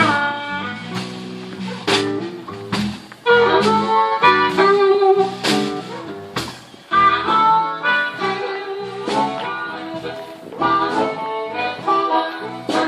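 Live blues band playing an instrumental passage between sung lines, pitched instrument notes over a steady beat.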